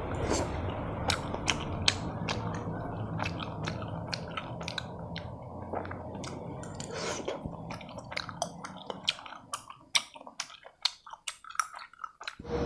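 Close-miked eating sounds of a mouthful of topokki rice cakes in sauce: chewing with many sharp, irregular wet clicks and smacks, coming faster and crisper near the end.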